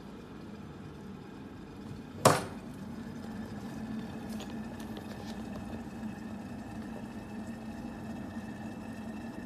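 Electric kettle: a single sharp click about two seconds in, over a steady low hum that gets slightly louder after it.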